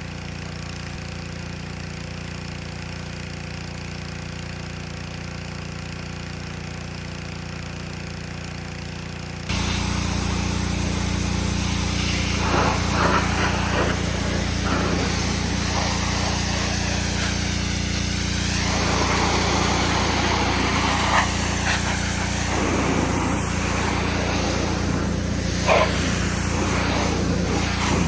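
Pressure washer running steadily. About a third of the way in it suddenly gets louder, with a dense spraying hiss and uneven splashing.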